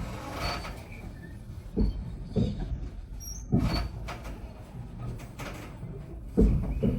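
Vintage railway carriage rolling along the track: a steady low rumble broken by irregular clunks and knocks, with faint short squeaks.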